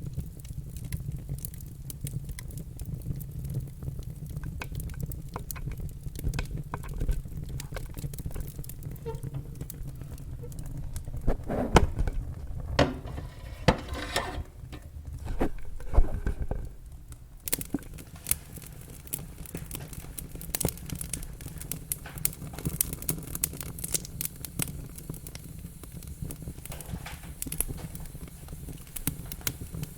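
Wood fire burning in a fireplace: a steady low rumble of flames under many sharp crackles and pops. A burst of louder, denser pops comes around the middle.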